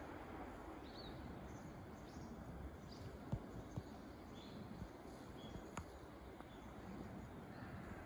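Faint, short, high bird chirps scattered here and there over a steady low outdoor rumble, with a couple of soft clicks.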